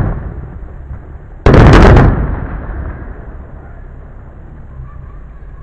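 Aerial fireworks shells bursting: a sharp bang at the start, then a louder, longer burst about a second and a half in that echoes away over the next second.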